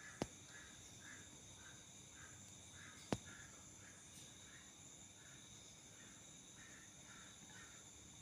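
Faint outdoor insect sounds, with a steady high buzz and a soft call repeating about twice a second. Two sharp clicks, one right at the start and one about three seconds in.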